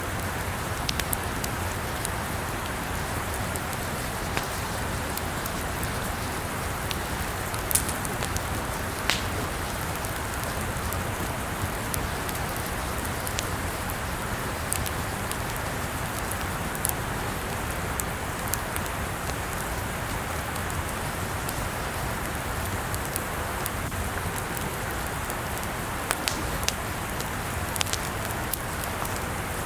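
Wood fire burning with a steady hiss and scattered sharp crackles and pops, a few louder ones standing out, several close together near the end.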